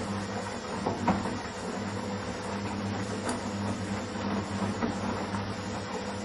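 Washing machine running: a steady motor hum under an even swishing noise, with a few faint knocks about a second in.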